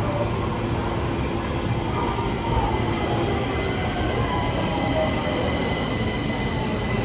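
Stockholm Metro train running on the rails: a dense, steady rail noise with faint sliding squeals in the middle and several steady high-pitched tones that grow stronger in the second half.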